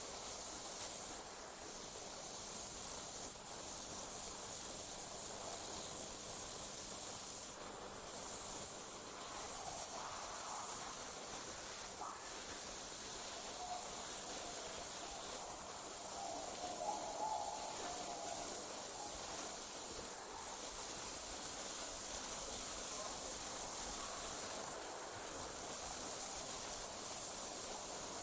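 Night crickets trilling in a steady high-pitched chorus that breaks off for a moment every few seconds.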